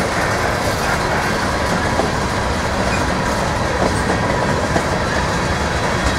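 Freight train's covered hopper cars rolling past close by: a steady rumble of steel wheels on rail, with clacks now and then as the wheels cross rail joints.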